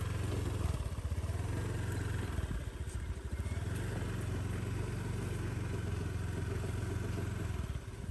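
Motorbike engine running at a steady speed, with a brief dip in its note about two and a half seconds in.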